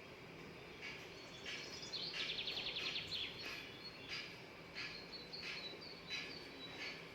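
Faint chirping of small birds: short high calls every second or so, with a rapid trill about two seconds in.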